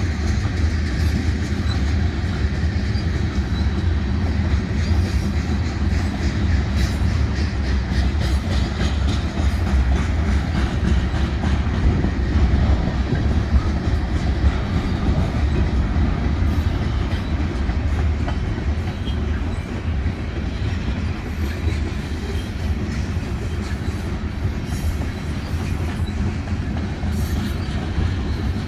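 Freight cars of a mixed manifest train (covered hoppers, tank car, boxcars) rolling past at trackside: a steady low rumble of steel wheels on rail, with scattered clicks from the wheels and rails.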